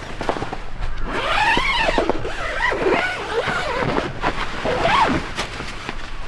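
Dog whining: several high, drawn-out whines that rise and fall in pitch, the first starting about a second in and the last near the end, with a few light clicks in between.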